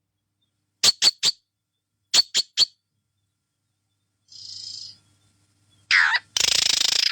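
A pet bird calling: two quick runs of three sharp, high squeaks, then near the end a falling call followed by a harsh, noisy screech.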